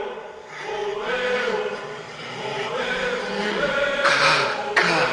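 A choir chanting in sustained sung phrases, with a swell of hiss about four seconds in and a sharp hit near the end.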